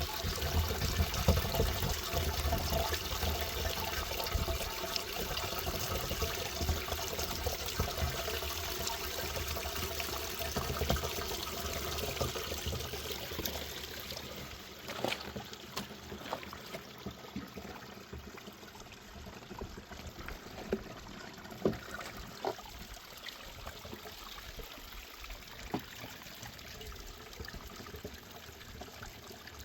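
Water running and pouring steadily. It is louder for about the first thirteen seconds and then eases, with a few sharp knocks in the second half.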